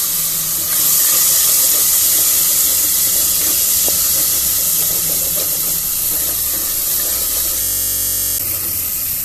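Onions and ginger-garlic paste sizzling loudly in hot oil in an aluminium pressure cooker, hissing as the splash of water just poured in boils off, while a wooden spatula stirs them. The hiss gets louder about a second in.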